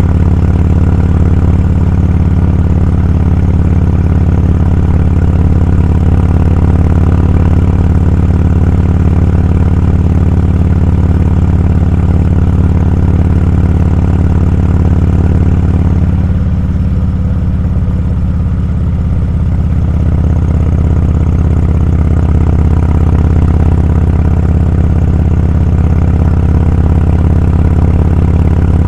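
Motorcycle engine running steadily at road speed, with wind rush over the microphone. A little past halfway the sound eases off for a few seconds, then picks up again.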